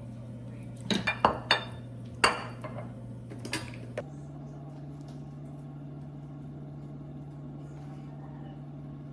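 Kitchen dishes and cutlery clinking: a quick run of sharp clinks and knocks over the first few seconds, then only a steady low hum.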